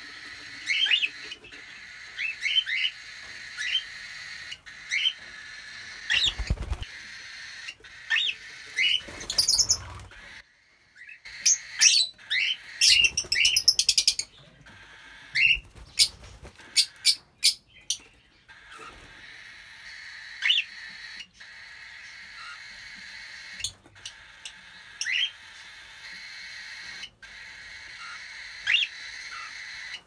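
Birds chirping: short rising calls, about one a second, over a steady high-pitched background. About halfway through, rustling, rumbling and a run of sharp knocks come from handling close to the microphone.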